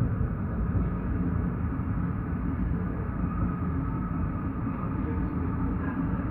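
Steady low rumble inside a Basel tram, heard from the passenger cabin, with a few faint steady tones over it.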